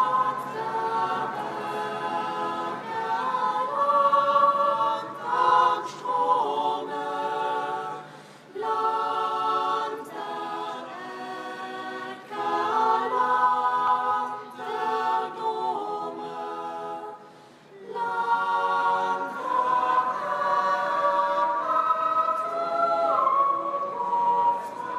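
Choral music: several voices singing held chords that step from note to note, with brief pauses about a third and two thirds of the way through.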